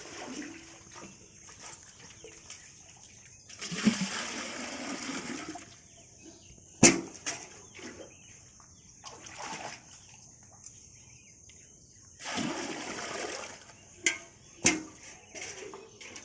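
Water splashing in two spells of about two seconds each, with a few sharp knocks in between.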